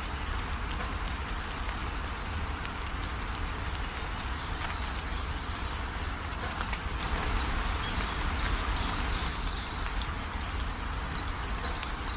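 Steady rain falling, with small birds chirping in short, high, repeated calls over it and a low rumble underneath.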